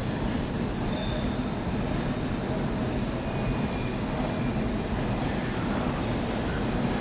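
London Underground train pulling out, a steady rumble of wheels on rails with a few faint, brief wheel squeals.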